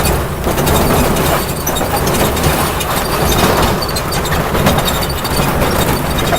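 Ride-on train running along its track: a steady rumble with rapid, irregular clicking and clatter from the wheels on the rails.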